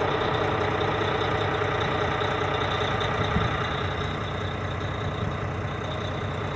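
Vehicle engine idling steadily, a low even hum heard from inside the vehicle.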